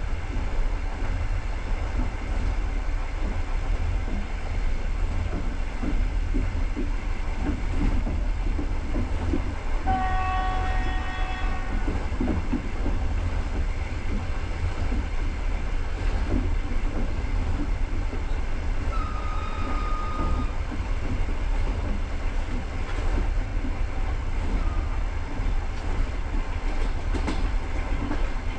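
Passenger train running at speed, heard from on board: a steady low rumble of wheels on rail with rhythmic clickety-clack. About ten seconds in, a train horn sounds one steady chord for about two seconds, and a shorter, higher tone follows near twenty seconds.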